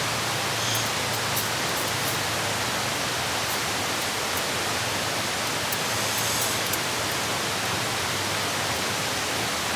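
Steady, even rushing of running water from a stream, with a few faint high clicks scattered through it.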